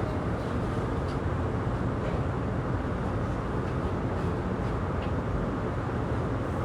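Steady interior noise aboard a JR East E235-1000 series electric train, a constant rumble with a few faint light ticks.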